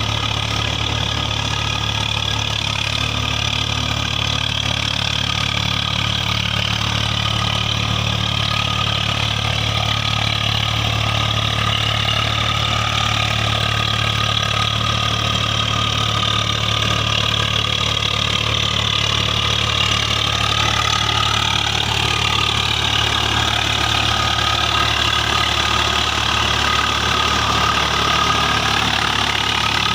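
Tractor diesel engine running steadily, with higher tones drifting slowly up and down in pitch.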